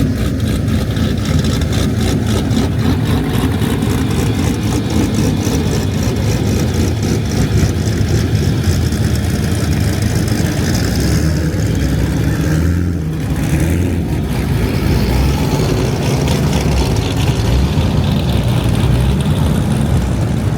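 A car engine running steadily and loudly, with a short dip in level about thirteen seconds in.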